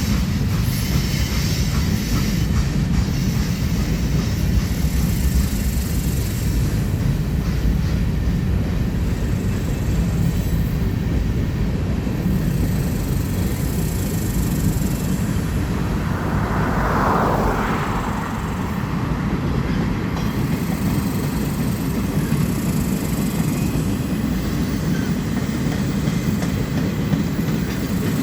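Mixed freight train's cars rolling past, a steady, loud low rumble of steel wheels on the rails. A brief swell of higher-pitched noise comes a little past the middle.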